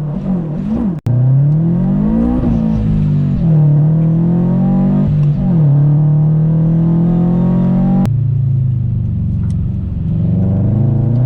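Supercharged Subaru BRZ flat-four, with catless header and single-exit exhaust, accelerating hard. The engine note rises and drops sharply a few times early on, as with quick gear changes, then holds a fairly steady drone under load.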